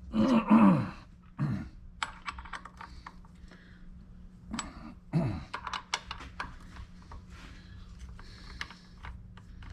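Small metal tools and tooling clicking and clinking as they are handled at a milling machine, over a steady low hum. Two louder short sounds slide down in pitch, one near the start and one about halfway through.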